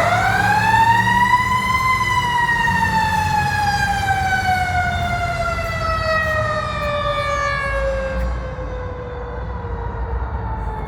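Fire truck's mechanical siren winding up to its peak in about two seconds, then slowly winding down in one long falling wail, with the truck's engine rumbling underneath.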